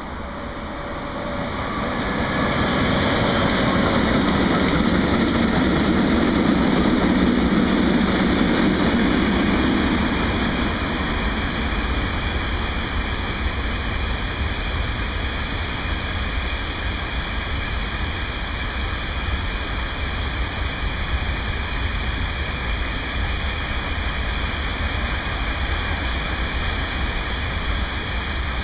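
Diesel freight locomotive passing close by, its engine loudest from about three to ten seconds in, then a steady rolling noise of a long train of covered hopper wagons running past on the rails.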